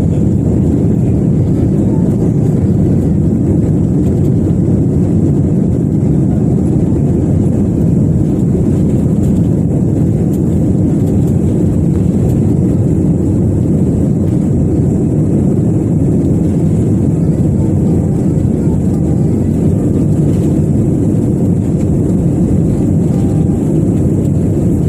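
Airbus A320 engines at high power, heard from inside the passenger cabin as a loud, steady, low-pitched rush that holds level throughout, with a faint thin high whine above it.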